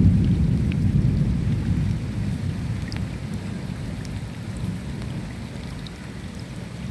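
Steady rain with the deep rumble of rolling thunder that slowly fades away, and scattered drops ticking.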